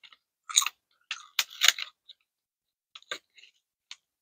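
Crunching and chewing of a crispy seaweed roll snack close to a clip-on microphone: a quick run of crisp crunches in the first two seconds, then a few sparser ones near the end.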